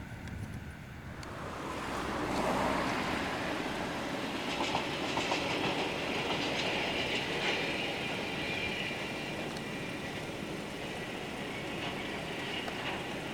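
A train running past on the rails. Its noise swells about two seconds in and then holds, with scattered wheel clicks over the rail joints.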